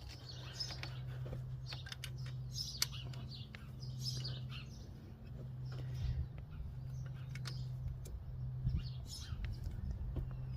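Birds chirping over and over against a steady low hum, with a few sharp clicks in between.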